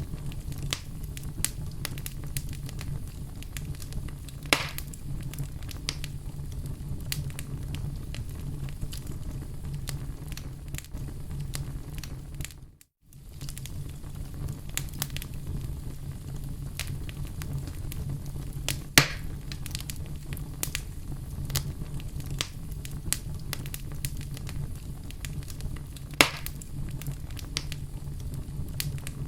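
Wood fire burning in a fireplace: a steady low rumble with constant small crackles and three louder pops. The sound cuts out for a fraction of a second about halfway through.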